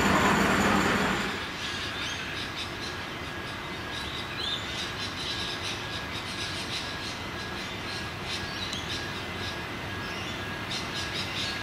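Birds chirping over the faint, even running noise of an approaching X'Trapolis electric train, with a faint high beep repeating several times a second. Louder train noise cuts off suddenly about a second in.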